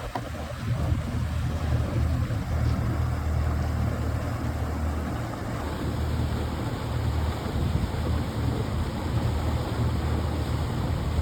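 Boat motor running steadily while the barge is manoeuvred, with wind buffeting the phone's microphone.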